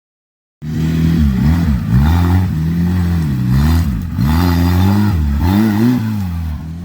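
Tractor engine revved up and down again and again, its pitch rising and falling about every second. It cuts in about half a second in.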